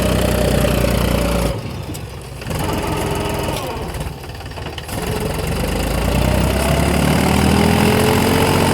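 Mahindra 275 DI tractor's three-cylinder diesel engine labouring under load as the stuck tractor is worked free. The engine eases off briefly about a second and a half in, then builds back up, its pitch rising steadily through the second half.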